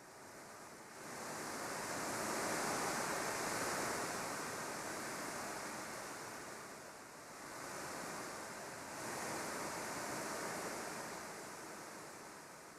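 Outdoor rushing noise of water and wind with no tones or clicks, swelling up twice for a few seconds each time.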